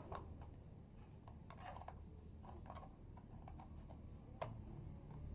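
Faint, scattered light clicks and taps, about a dozen, with one sharper click about four and a half seconds in, over a low hum.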